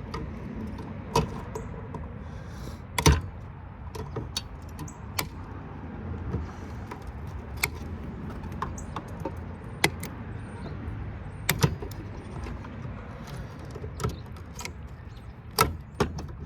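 Craftsman aviation snips being worked open and shut after loosening, giving irregular sharp clicks and clacks, about a dozen, over a steady low rumble. The snips are not cutting properly.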